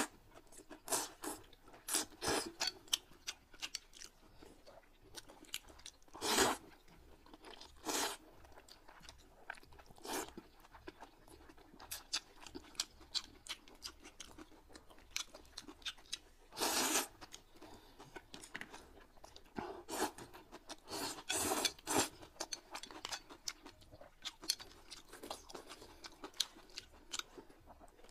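Close-miked eating sounds from two people at a table: chewing, with many short clicks and a few louder noisy bursts. One of them is eating noodles with chopsticks.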